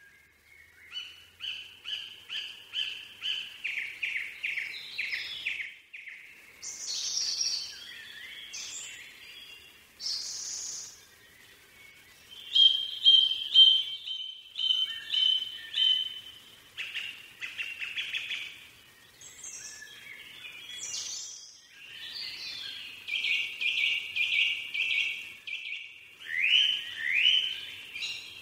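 Small birds chirping and singing: runs of short, high repeated notes with brief pauses between them, and a few higher calls from another bird over them.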